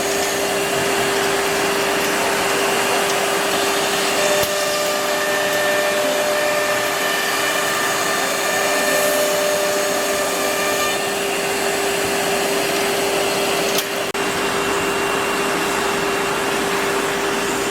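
CNC router spindle running with a steady high whine while its bit cuts a wooden plate. Extra tones join the whine for several seconds midway, and there is a brief click about 14 seconds in.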